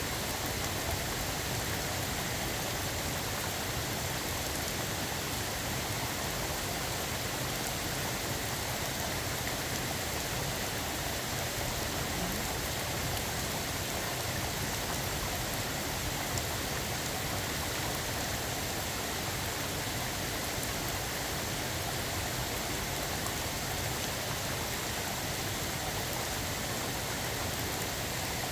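Steady summer rain falling, an even hiss of drops that holds at one level throughout.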